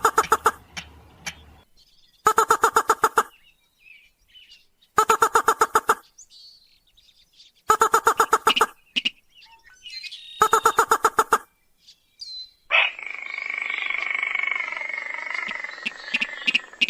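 Rail lure call of the Indonesian 'sintar' or mandar padi, the slaty-breasted rail. There are five short, rapid rattling bursts about every two and a half seconds, then a longer, drawn-out, harsh call for the last few seconds.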